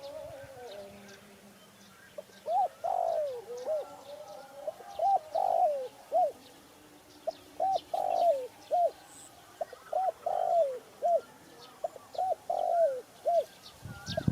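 Spotted dove cooing: phrases of several short coos repeated about every two and a half seconds, starting about two seconds in.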